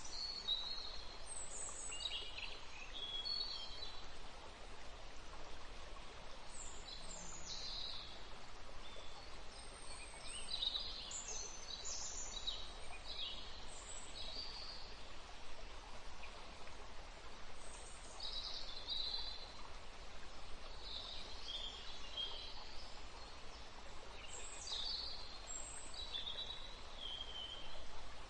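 Small birds chirping and twittering in short, high calls, scattered all through, over a steady hiss like running water.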